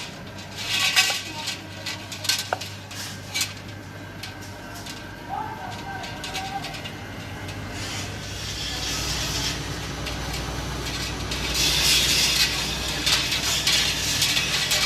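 Workshop sounds: scattered metal clinks and knocks over a steady machine hum, with the hum growing stronger and bursts of hiss coming in during the second half.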